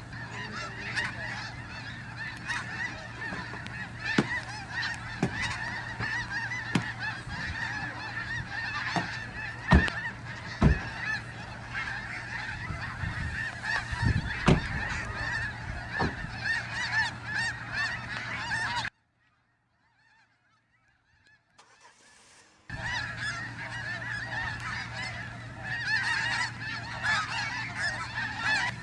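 Large flock of snow geese honking, a dense chorus of overlapping calls, with a few sharp knocks around the middle. The sound drops out for about four seconds in the last third, then the honking resumes.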